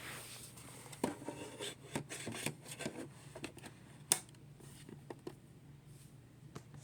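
Irregular plastic clicks and rubbing from handling a Roomba i5 robot vacuum, with the sharpest click about four seconds in.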